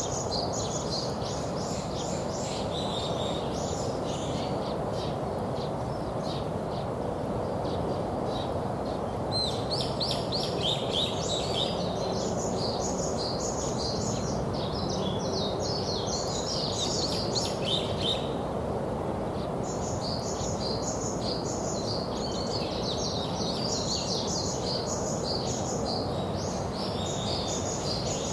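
Many small birds chirping rapidly in dense runs, with a few short pauses, over a steady background hum of outdoor noise.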